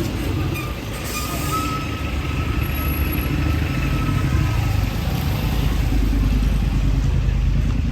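Street traffic: a motor vehicle's engine running close by with a steady low rumble, growing a little louder in the second half.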